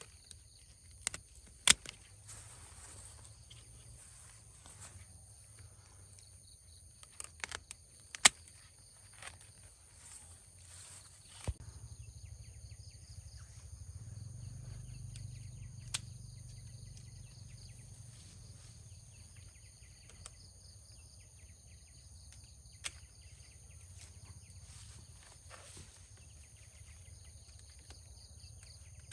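Steady high-pitched drone of insects, likely cicadas or crickets, with scattered sharp clicks and snaps, the loudest about two and eight seconds in.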